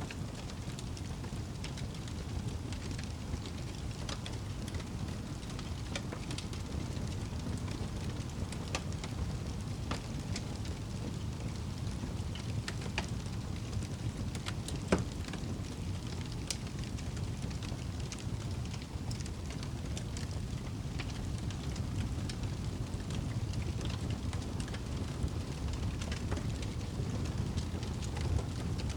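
Campfire burning, with irregular small crackles and pops over a steady low rumble; one sharper pop about halfway through.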